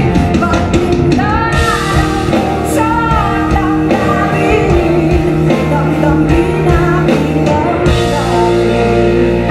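Live band playing a rock-style ballad with drums and electric guitar, with a woman singing over it. The drums drop out near the end, leaving sustained chords.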